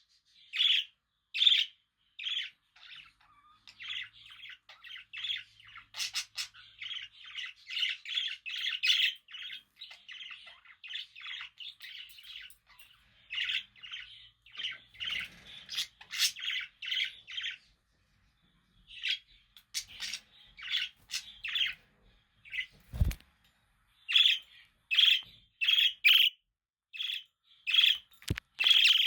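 Pet budgerigars chirping and chattering: many short, sharp calls, running together into a fast warbling chatter in the middle, with a pause of about a second about two-thirds through. A soft knock sounds once shortly after the pause.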